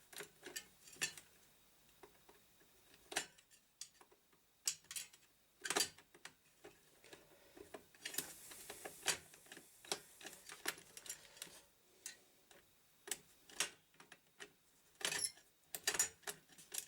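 Irregular light clicks and small metallic taps of computer hardware being handled on the workbench, with a brief faint hiss about eight seconds in.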